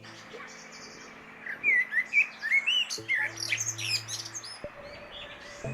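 Small songbirds chirping and singing in quick, rising and falling whistled notes, busiest through the middle of the stretch. A steady low hum sounds under them for a second or two in the second half.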